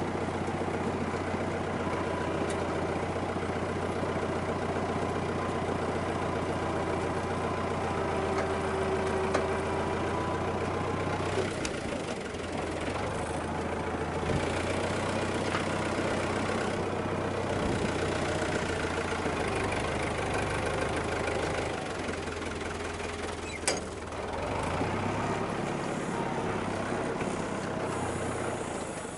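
Farm tractor engine running steadily, its note shifting about eleven seconds in, with a single sharp click near the end.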